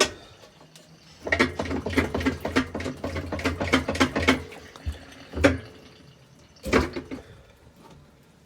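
Front-load Samsung washer's drum shifted by hand, clunking and rattling for about three seconds, then knocking twice more. The loose play is the sign of a broken drum bearing and flange.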